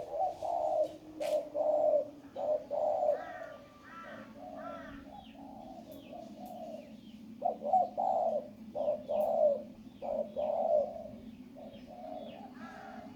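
Spotted dove cooing in two bouts of repeated low coos, the second starting about halfway through. Fainter, higher chirps from another bird come between the bouts and near the end, over a steady low hum.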